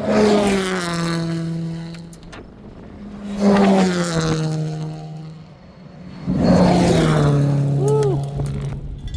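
Rally cars passing at speed three times, each engine note starting loud and dropping in pitch as the car goes by.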